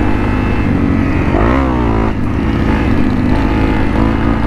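Motorcycle engines running under way: a Honda CRF250L's single-cylinder engine alongside a Harley-Davidson with a very loud exhaust. About a second and a half in, one engine revs up in a rising pitch, then drops off abruptly just after two seconds.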